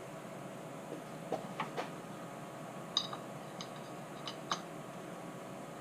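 A handful of light clicks and taps, about seven scattered over a few seconds, from small parts being handled, over a steady hum.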